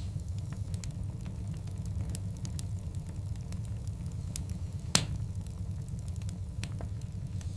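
Wood fire burning in a fireplace: a steady low rumble with frequent small crackles and one louder pop about five seconds in.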